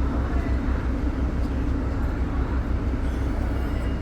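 Ferry's diesel engine running with a steady low drone.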